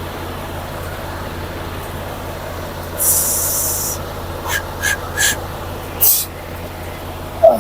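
Semi-truck diesel engine idling steadily. About three seconds in there is a one-second hiss of released air, typical of the air brakes. Three short clicks follow, then another brief air hiss, and a single loud knock comes near the end.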